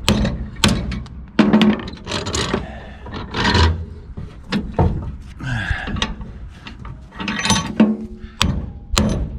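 Hammer blows on steel as old lug studs are knocked out of the Subaru Forester's wheel hub with a 4-pound hammer: a string of irregular metallic strikes, some ringing briefly, with scraping and clinking of metal parts between them.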